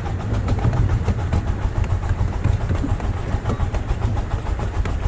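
Miniature ride-on railway train running along the track, heard from aboard: a steady low rumble with frequent clicks of the wheels over the rail joints.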